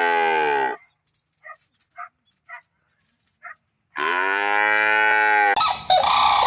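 Cow mooing twice: a short moo at the start, then a longer one about four seconds in, with a few faint short sounds in between. Near the end a noisier, different sound cuts in.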